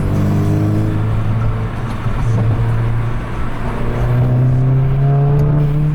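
Straight-piped Mk7.5 Golf GTI's turbocharged 2.0-litre four-cylinder running loud through its open exhaust under steady driving, the engine note climbing gradually in the second half as it gently accelerates.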